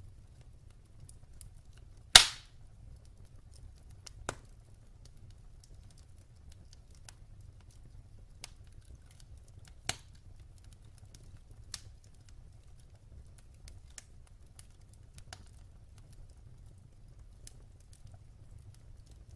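Wood fire crackling in a fireplace over a low steady rumble: scattered sharp pops, one much louder snap about two seconds in and smaller pops around four and ten seconds in.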